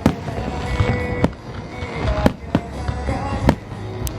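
Aerial fireworks bursting in a display: about six sharp bangs spaced irregularly about a second apart, over a constant low rumble of booms.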